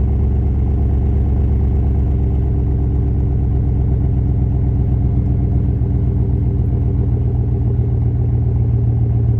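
2019 Chevrolet Silverado's 5.3L V8 idling steadily shortly after a cold start, its exhaust running through a 3-inch Classic Chambered Powerstick muffler with the stock resonators still in place. The engine note shifts slightly about halfway through.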